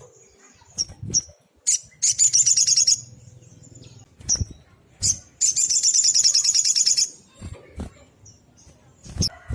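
Small songbird singing: two long, rapid, high trills of fast repeated notes, the second and longer one about halfway through, with short high chirps in between.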